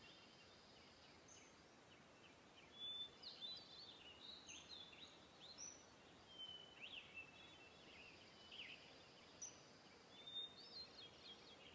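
Very quiet background of faint birds chirping: scattered short high chirps and quick whistled sweeps over a low hiss, with similar phrases coming back every several seconds.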